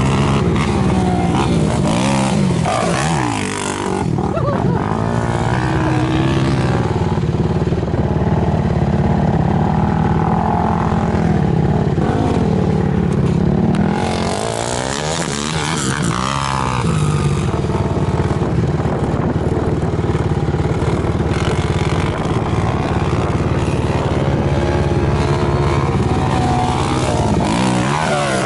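Suzuki LT-R450 sport quad's single-cylinder four-stroke engine revving hard as it is ridden, its pitch rising and falling again and again, with marked drops in revs a few seconds in and about halfway.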